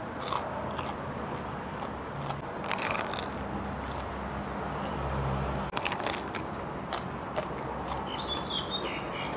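Close-up biting and chewing of crispy deep-fried pork knuckle, its crackling skin giving short scattered crunches. Birds start chirping near the end.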